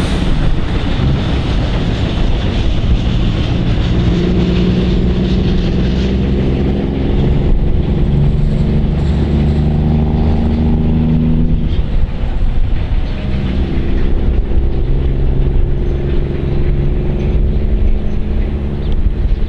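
Narrow-gauge diesel freight train running past with a long string of loaded gypsum hopper wagons: a steady heavy rumble with a low engine drone that shifts pitch a few times.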